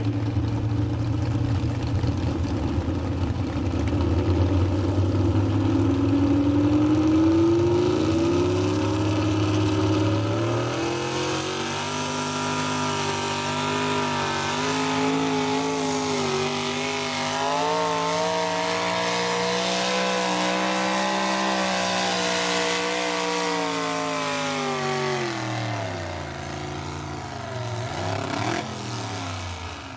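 Pulling truck's engine at full throttle on a truck pull. Its pitch climbs over the first ten seconds or so, holds high and steady with slight wavering, then falls away a few seconds before the end.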